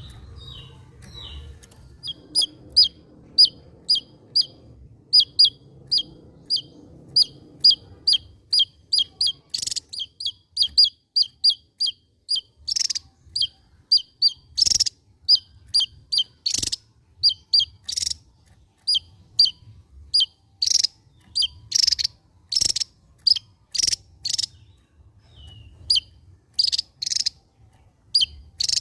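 Javan tesia singing: a long run of short, high chirps, about two or three a second, some louder and sharper than the rest.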